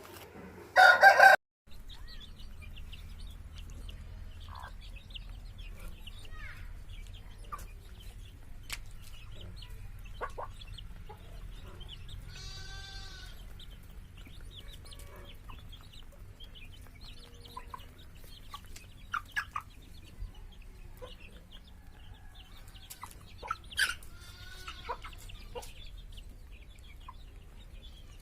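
Aseel chickens clucking and calling at intervals, with a loud short call about a second in and a brief rooster crow about halfway through, over a low steady hum.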